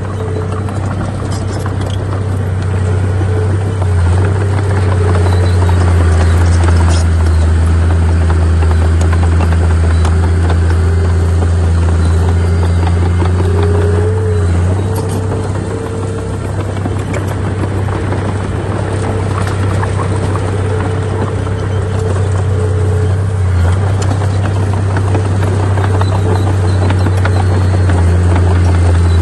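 Heavy diesel earthmoving machinery running steadily under load, with a deep, constant engine drone and a fainter steady whine above it.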